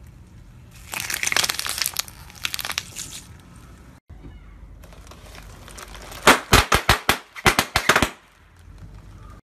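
Car tyre rolling over a heap of plastic googly eyes, giving a dense crackling and crunching for about two seconds. Then a tyre rolls over a strip of clear inflatable air-column packaging, and its cells burst one after another in a quick run of about eight loud pops.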